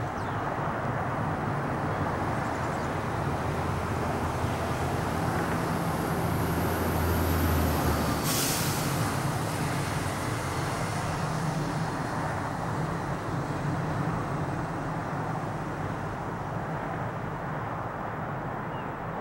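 Airbus A330's jet engines at takeoff power: a steady roar with a deep rumble that swells to its loudest about seven to eight seconds in, where the lowest rumble drops away suddenly, followed by a short hiss.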